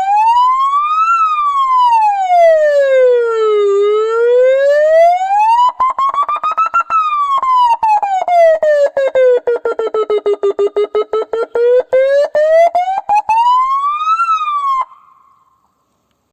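Electronic vehicle siren-loudspeaker unit (Russian SGU) sounding a slow wail that rises and falls several times. Through the middle of the sweep the tone is broken into a rapid stutter. It stops abruptly about fifteen seconds in.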